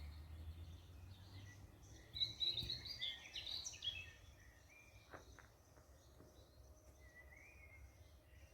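Small birds chirping and singing, with a busy flurry of quick chirps about two seconds in, over a low background rumble.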